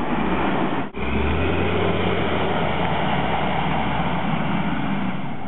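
Large diesel engine of heavy plant running steadily with a strong low hum, and a brief break in the sound about a second in.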